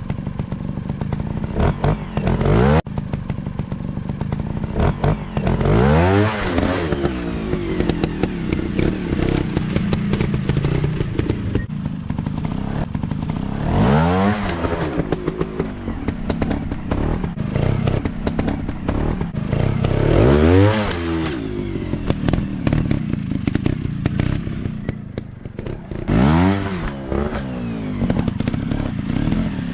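Dirt bike engine running, revved up and let down again about five times, each rising then falling in pitch. Clattering and scraping run underneath.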